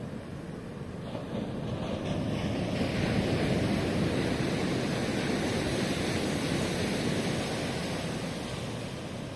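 Ocean surf: a wave breaks and washes up the shore, the rush of water swelling about two seconds in and easing off near the end.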